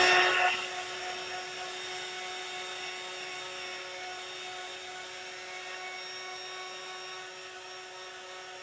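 Electric hot-air quick-drying tool blowing steadily with a motor whine, used to dry wet craft paste; it is louder for the first half second, then runs at an even level.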